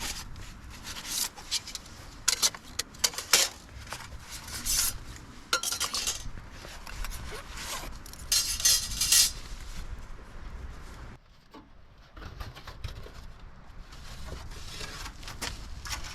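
Metal camp cookware and gear clinking and clattering as it is handled, in irregular knocks and rattles, with a short pause about eleven seconds in.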